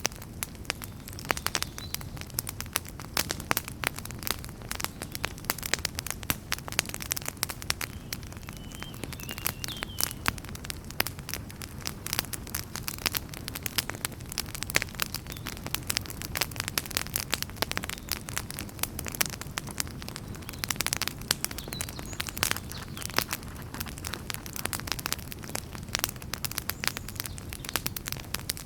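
Wood fire burning in a fireplace: logs crackling and popping with many irregular sharp snaps over a low, steady rumble of the flames.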